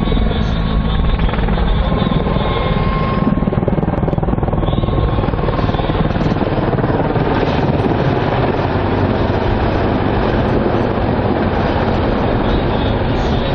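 Helicopter in flight, a loud steady noise of rotor and turbine engines, with a thin whine over it that fades out about three seconds in.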